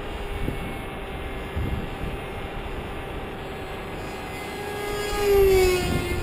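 Electric motor and propeller of a Ritewing Zephyr II RC flying wing whining steadily in flight. It grows louder about five seconds in and drops in pitch as the plane passes by. Gusts of wind rumble on the microphone.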